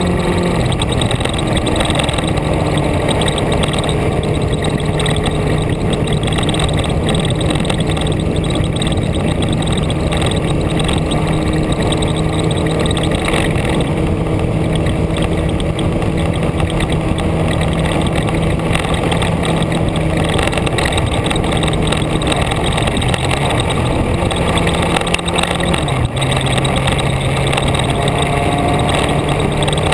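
A vehicle's engine running steadily while driving, with heavy wind and road noise over it; the engine note drops to a lower pitch about 26 seconds in.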